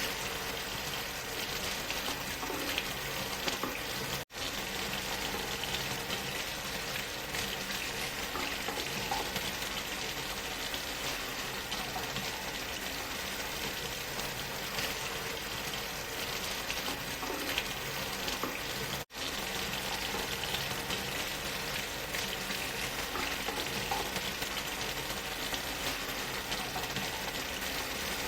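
Steady rushing of a waterfall blended with white noise, a constant even hiss that cuts out for an instant twice.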